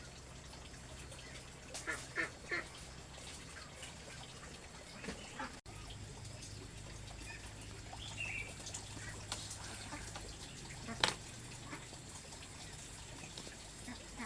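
A few short, scattered bird calls over a faint steady low hum, with a single sharp click about three-quarters of the way through.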